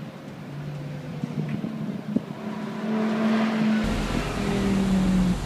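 Sports car engines running on a track, one car driving past with its engine note rising about three seconds in. Near the end a steady low rumble sets in.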